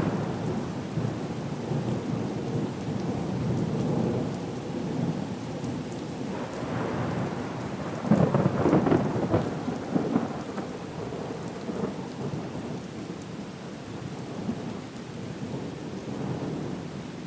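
Thunderstorm ambience: steady heavy rain with rolling rumbles of thunder. One rumble rises sharply about eight seconds in, then fades.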